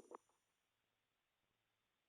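Near silence: the tail of electronic music fades out in the first moment, then nothing.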